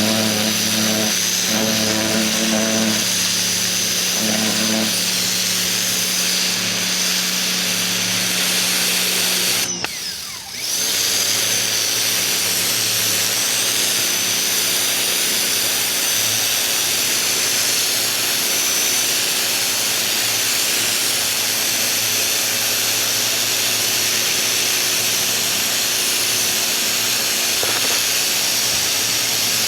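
Ryobi 2000 PSI electric pressure washer running steadily, its pump motor humming under the hiss of the high-pressure spray. The sound drops out briefly about ten seconds in, then picks up again.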